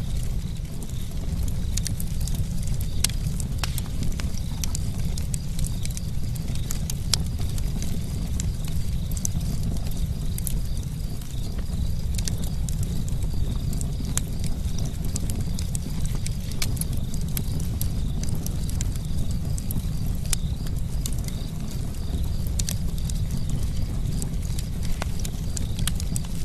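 Campfire burning, with a steady low rumble and many sharp, irregular crackles and pops from the burning wood.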